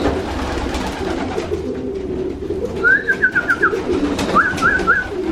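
Racing pigeons cooing in the loft: continuous low, rolling coos. About three seconds in, and again just after four seconds, come two quick runs of short, high, sliding peeps.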